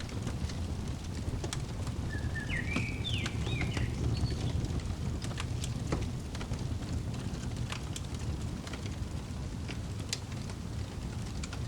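Fireplace crackling: scattered sharp pops and snaps over a steady low rumble of burning wood. A bird chirps a few short notes about two to four seconds in.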